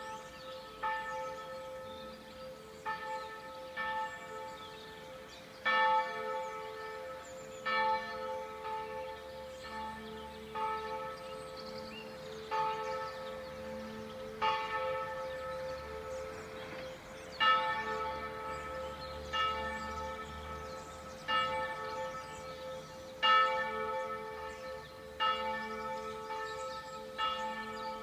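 Church bells ringing, struck over and over about every one to two seconds, each strike ringing on over a steady hum.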